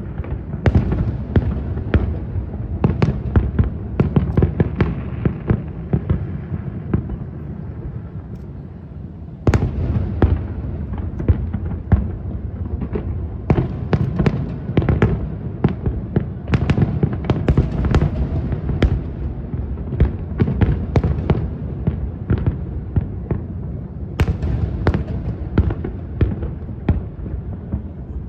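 Fireworks display: a dense barrage of shell bursts and crackling reports over a continuous low rumble. It eases off briefly, then loud new volleys come in about nine and a half seconds in and again about twenty-four seconds in.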